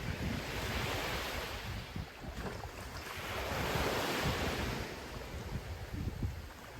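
Ocean surf breaking and washing up the shore in two surges, the second, about four seconds in, the louder. Wind buffets the microphone with a low rumble.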